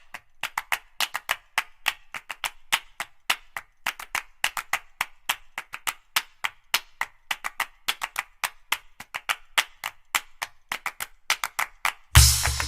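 A quick, slightly uneven run of sharp clicks, about four to five a second. Near the end, loud music with heavy bass and percussion cuts in.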